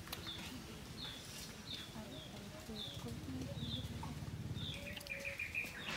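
A bird chirping repeatedly, short falling high notes about once a second, with a quick run of four notes near the end.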